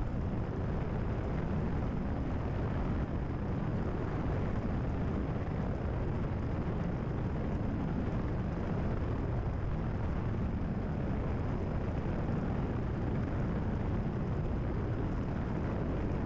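Cessna 172RG's engine and propeller droning steadily at cruise power, heard as cabin noise in flight.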